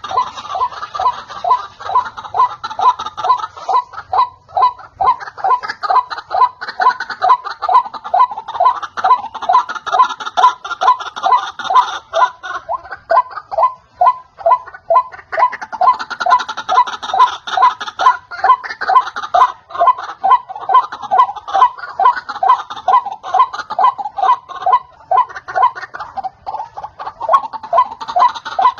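White-breasted waterhen (ruwak-ruwak) calling: a long, loud run of repeated harsh notes, about two to three a second, the bird's lure call.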